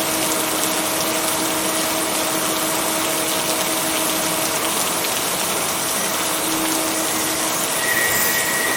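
Steady rain, an even hiss with no breaks, with a faint steady hum running through it.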